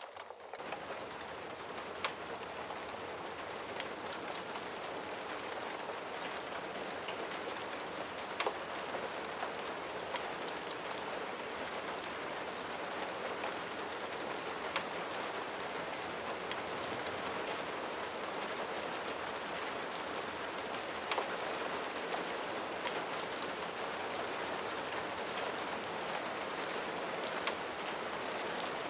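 Steady rain falling, an even patter with a few sharp isolated ticks now and then.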